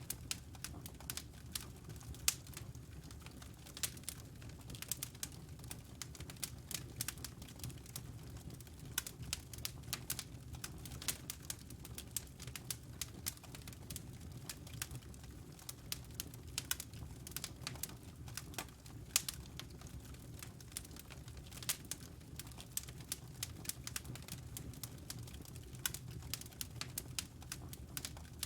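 Wood fire burning in a fireplace: many irregular sharp crackles and pops, several a second, over a low steady rumble of the flames.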